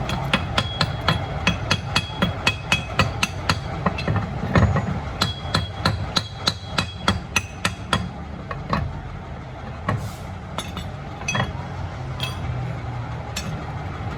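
Hammer blows on metal, about three a second for roughly eight seconds, each with a short metallic ring, then slowing to scattered knocks. A steady low rumble runs underneath.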